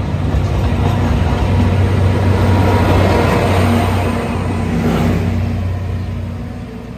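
Alishan Forest Railway train running past with a steady low engine hum, growing louder to a peak about three seconds in, then fading near the end.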